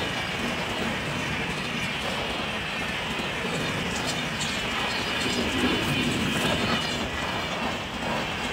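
A train running past on the tracks: a steady rushing rumble of wheels on rail, with a few sharp clicks in the middle.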